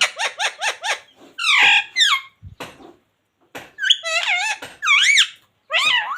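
Indian ringneck parakeet calling: a quick run of about six short squeaky calls, then a harsher squawk, then warbling chatter of swooping whistled notes.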